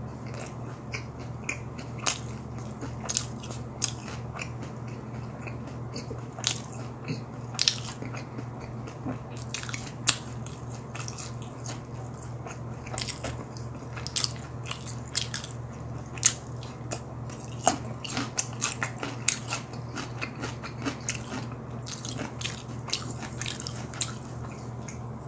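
Close-miked chewing of crispy boneless fried chicken, with frequent sharp crunches and smacking throughout.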